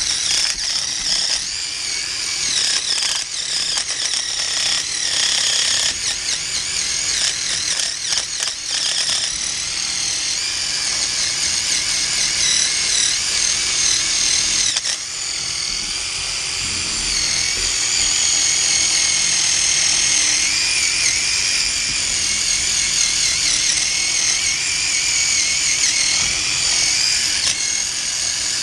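A power tool running almost without pause, a high whine that wavers in pitch.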